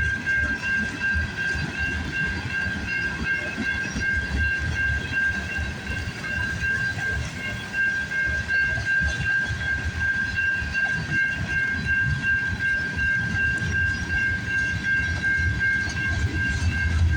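CN M394 freight train's cars rolling past, a steady low rumble with clatter over the rail joints. A steady high-pitched whine runs through it.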